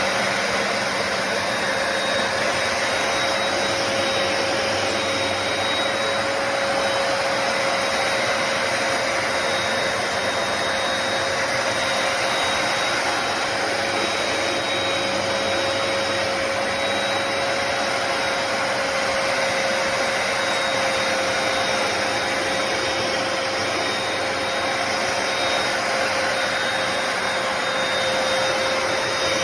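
Hoover PowerDash Pet+ carpet cleaner running steadily: the motor's rushing air noise with a constant high whine.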